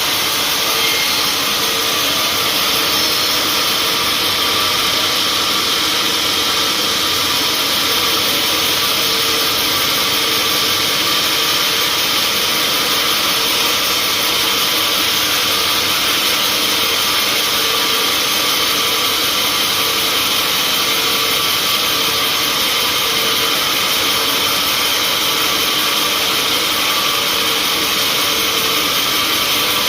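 Sawmill machinery running: a loud, steady mechanical noise with a faint hum, unchanging throughout.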